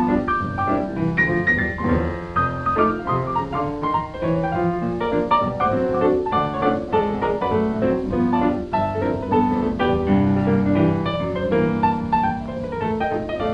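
Background piano music: quick runs of notes over a bass line.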